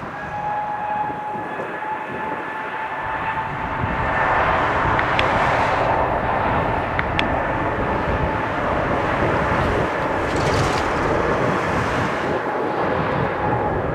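Airbus A320neo jet engines running: a steady whine over a rushing roar that grows louder about four seconds in and then holds.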